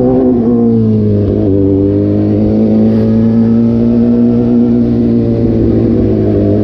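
Suzuki GSX-S750's inline-four engine running through an SC-Project exhaust with the dB killer removed. Its pitch drops twice in the first second and a half, then holds nearly level, creeping slowly upward.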